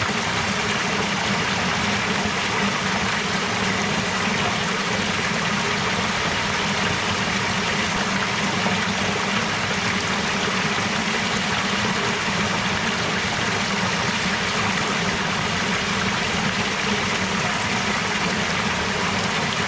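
Flowing stream water, a steady even rush of moving water.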